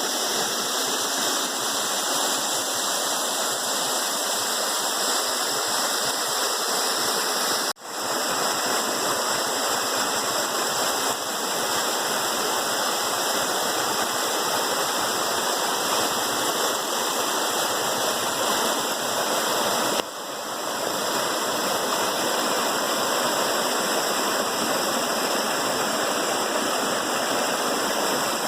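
Waterfall rushing steadily, a dense, even roar of falling water. It drops out for an instant about eight seconds in and dips briefly again about twenty seconds in.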